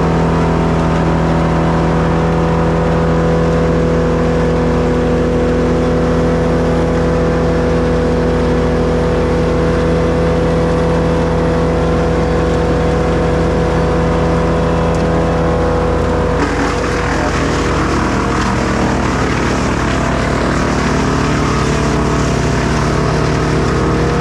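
Two-stroke chainsaw running at high revs with a steady engine note. About sixteen seconds in, the pitch dips and a rasping noise joins it as the chain bites into wood under load.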